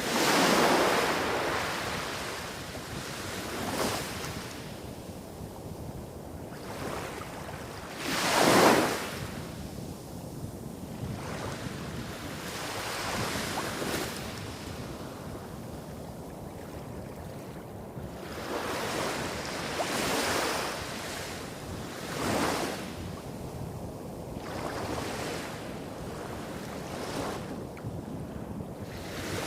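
Small waves breaking on a beach, each one a brief wash of surf every few seconds, the strongest about a second in and a sharper one near nine seconds. Underneath runs a steady low rumble of bigger waves hitting rocks a few hundred metres off.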